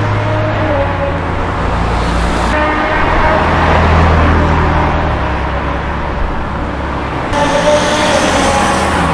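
Sports car engines driving past one after another: an air-cooled Porsche 911 Carrera's flat-six pulling away, then a BMW M4 passing and a BMW M3 approaching, both with twin-turbo straight-sixes. The engine sound changes abruptly about two and a half and seven seconds in.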